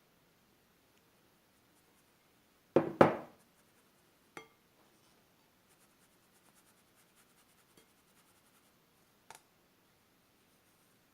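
Kitchen utensils handled against a mixing bowl: a loud double knock, then a short ringing clink, faint scraping ticks, and one more knock.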